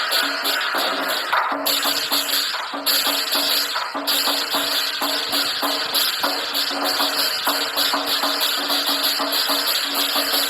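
Chinese lion dance percussion music: drum and clashing cymbals playing a fast, steady beat.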